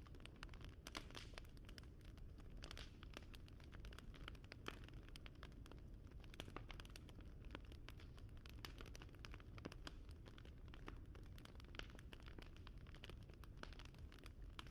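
Faint crackling fire: many small irregular pops and snaps over a low steady rumble.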